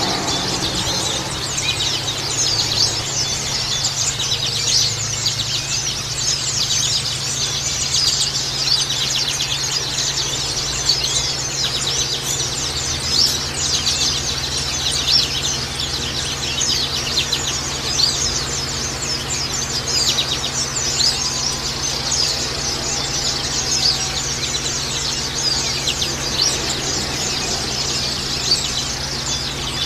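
White-eyes (pleci) singing: a dense, unbroken stream of quick, high chirps and twitters, with a steady low hum underneath.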